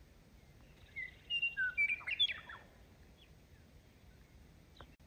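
Birds chirping: a quick run of short chirps and whistles starting about a second in and lasting under two seconds, then only a faint hiss.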